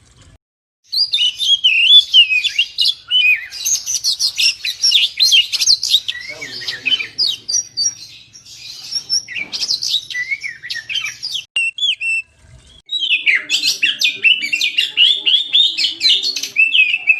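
Oriental magpie-robin (kacer) singing energetically: a fast, varied run of whistles and chattering notes, with a short break about twelve seconds in.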